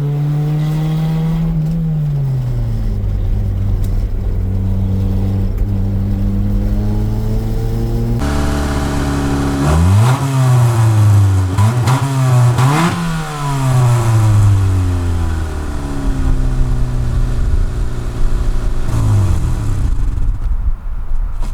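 1991 Honda CRX Si's 1.6-litre four-cylinder engine under way, its pitch dropping about two seconds in, then rising and falling several times in quick succession before settling. The engine does not like partial throttle, so it is driven either off the throttle or on it.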